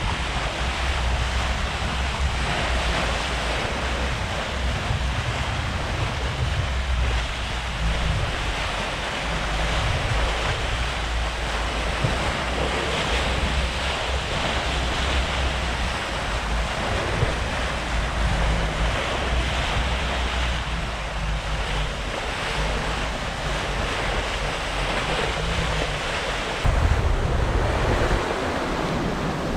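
Waves and rushing water around a sailboat under way, with wind buffeting the microphone in a steady low rumble. A louder surge comes near the end.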